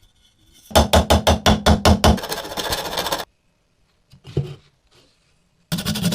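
Electric coffee grinder running in short bursts: a rapid rattling clatter of about eight knocks about a second in, easing into a rushing grind that stops; it starts up again near the end.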